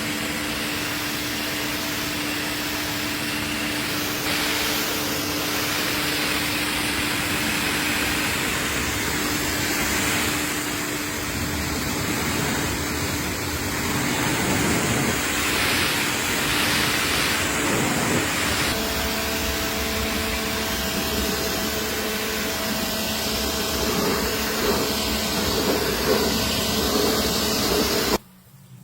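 A car-cleaning machine running: a steady motor hum under a loud rushing hiss. The sound changes character a few times and cuts off suddenly near the end.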